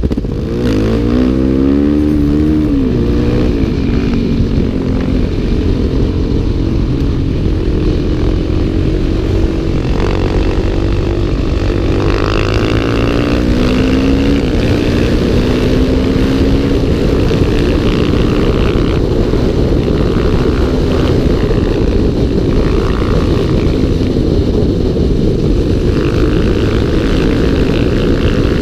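Single-cylinder four-stroke dirt-bike engine heard from a camera mounted on the motorcycle, running hard under way, its pitch rising and falling with throttle and gear changes, most plainly in the first few seconds and again around ten to fourteen seconds in.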